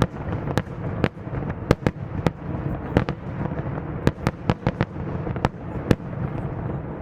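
Fireworks display: a rapid, irregular series of sharp bangs, several coming within a second of each other, over a continuous rumble of bursting shells. The bangs stop about six seconds in, leaving the rumble.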